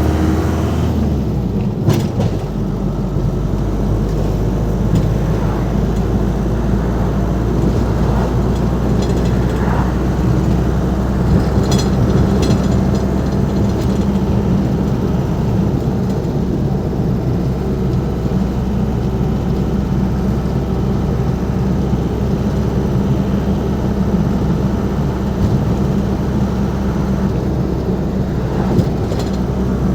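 Ford Transit Mk5's 2.5-litre 'banana' diesel engine running steadily on the move, a continuous drone with light clicks about two seconds in and again around twelve seconds.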